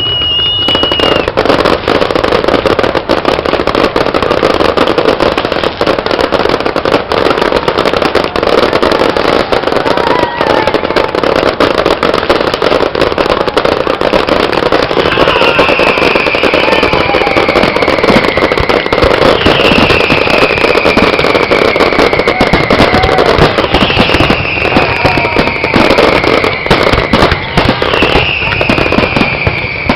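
Fireworks display: a continuous barrage of bangs and crackling, with long falling whistles recurring about every four seconds in the second half.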